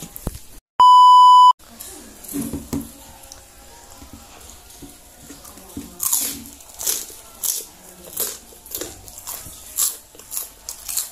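A loud electronic beep, one steady pitch held for just under a second, about a second in. Then mouth chewing of crunchy food, with a run of crisp crunches about twice a second in the second half.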